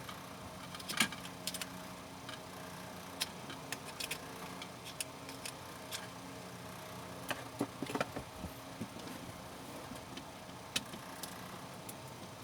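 Scattered light clicks and taps of small parts being handled, busiest about a second in and again near two-thirds of the way through, over a steady low hum.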